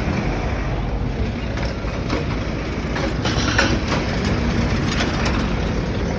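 Road traffic passing: a steady low rumble of vehicle engines and tyres.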